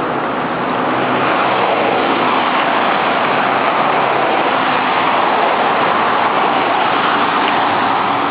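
Loud, steady street traffic noise: a motor vehicle's engine and tyres running close by.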